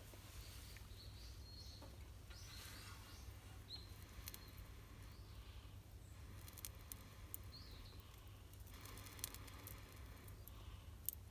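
Faint outdoor ambience: a low steady rumble with a few short high bird chirps and scattered small clicks.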